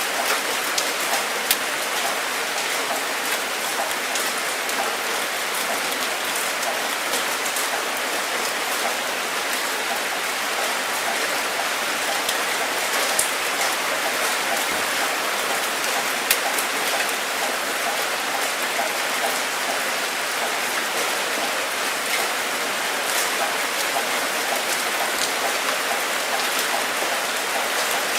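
Steady rain falling, an even hiss with many distinct drops ticking on a hard surface.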